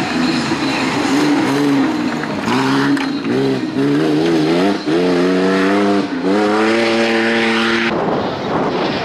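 Off-road race vehicle's engine revving hard, its pitch rising and falling with the throttle and climbing through the gears twice. About a second before the end it gives way to an even rushing noise.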